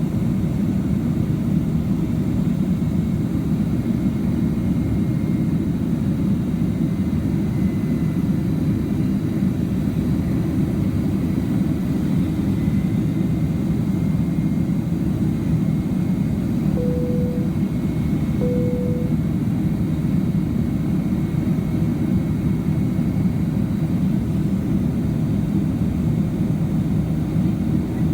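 Steady low roar of jet engines and airflow heard inside the cabin of a Boeing 767-300ER climbing after takeoff. Past the middle, two short tones of the same pitch sound about a second and a half apart.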